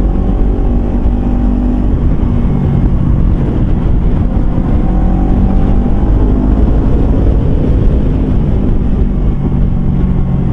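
Kawasaki Versys-X 250's parallel-twin engine running through a Norifumi slip-on exhaust with no dB killer while the bike is ridden. The exhaust note rises and falls gently with the throttle over a steady low rumble.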